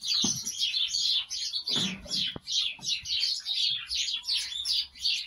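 Many small birds chirping over and over, several short falling chirps a second without a break. A couple of low knocks and a click come about two seconds in.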